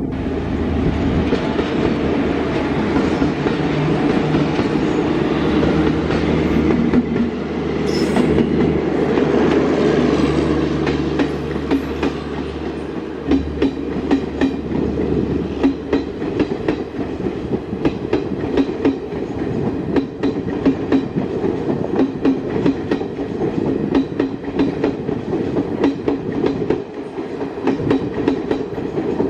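Electric locomotives running past with a steady low hum over the noise of the wheels. From about halfway, a passenger train's coaches clatter over the rail joints in a quick, regular clickety-clack.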